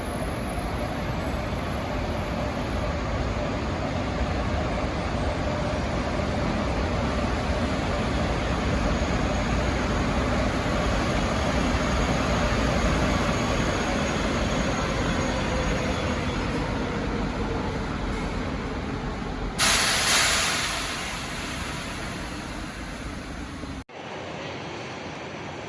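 High-speed train running through the station, its motor whine slowly falling in pitch as it slows. A loud burst of hiss comes about 20 seconds in, and the sound cuts off abruptly near the end.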